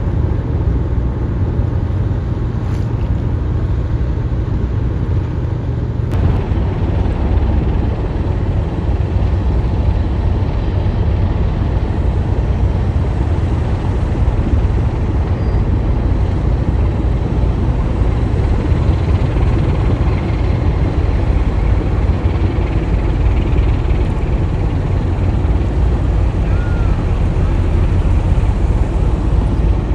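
Steady low rumble of the tugboat Tokachi's engines as it leaves port.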